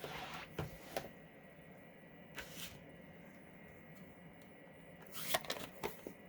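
Quiet desk-handling noises: a soft rustle, then a few scattered light taps and clicks as a stamp and cardstock pieces are lifted and set down, with a small cluster of knocks about five seconds in.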